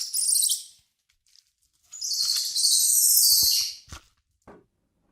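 High-pitched animal chirping in two bursts, a short one at the start and a longer trill about two seconds in, each made of rapid pulses.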